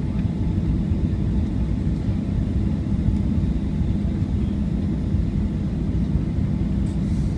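Jet airliner's engines running: a steady low rumble with a constant hum, holding level without rising or falling.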